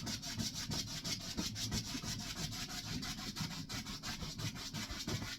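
A large paintbrush scrubbing acrylic paint onto the painting in quick crisscross strokes: a rapid, steady scratchy rubbing of bristles, several strokes a second.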